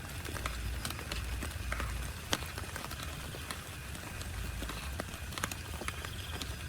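Rain drops tapping irregularly on a tent, with a low rumble underneath.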